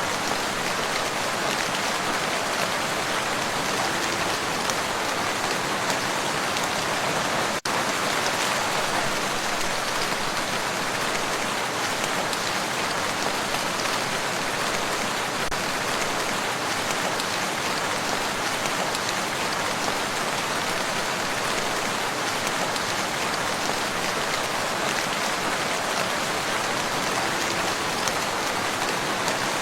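Steady rain falling on a lake: an even, dense hiss of countless drops, broken once by a split-second dropout about eight seconds in.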